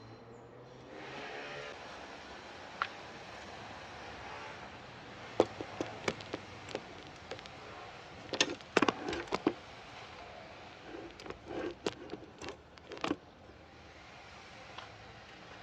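Scattered sharp clicks and knocks of hand tools and car parts being handled during work on a wiper motor and linkage, with a quick run of several knocks about halfway through.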